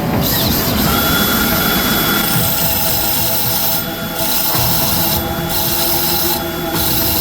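A power tool working steel, a steady rasping noise; the high hiss drops out briefly three times in the second half.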